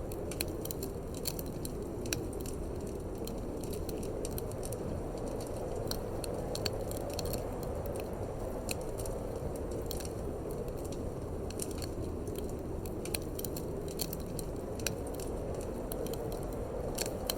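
Wood fire crackling in a fireplace, with frequent sharp pops and snaps over a steady low rush of wind.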